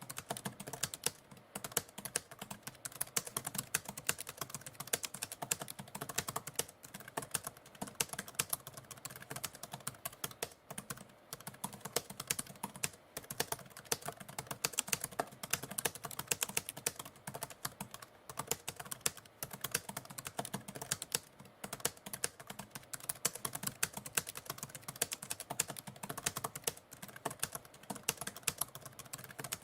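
Typewriter keys clacking in a fast, irregular, unbroken stream of strikes.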